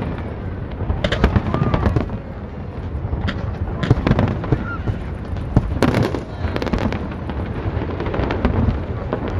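Fireworks display: a rapid run of bangs and crackling over a steady low rumble, with the densest clusters of sharp reports about a second in and again near six seconds.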